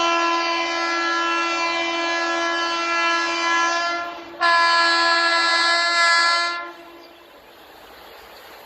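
Indian Railways locomotive horn sounding two long blasts at a steady pitch: the first lasts about four seconds, the second about two seconds. After that, only a much quieter rumble of the train is left.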